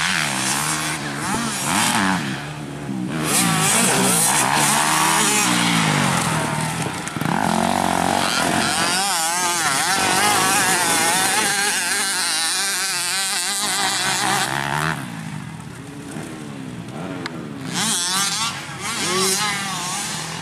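Motocross bike engines revving on a dirt track, the pitch rising and falling over and over as the riders accelerate, shift and back off.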